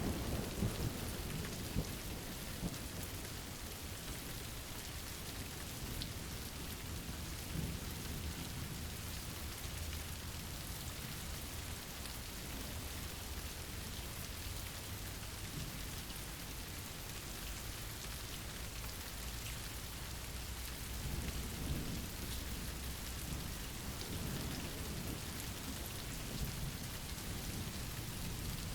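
Steady rain hissing, with low thunder rumbling underneath. The thunder is strongest right at the start and swells again about two-thirds of the way through.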